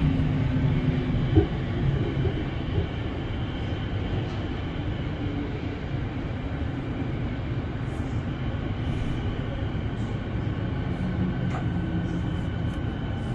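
Melbourne Metro suburban electric train heard from inside the carriage as it pulls slowly along a station platform. A steady rumble eases down over the first few seconds as the train slows, and a low hum fades out about a second in.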